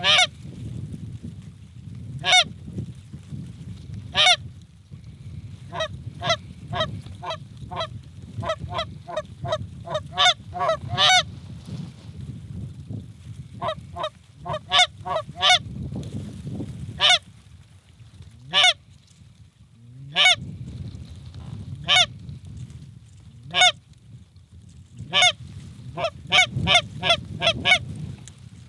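Canada goose honks and clucks, single calls and quick strings of three or four a second, over a low wind rumble.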